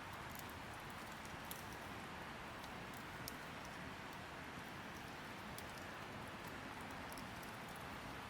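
Wood fire crackling: a steady hiss of burning with scattered sharp pops and snaps.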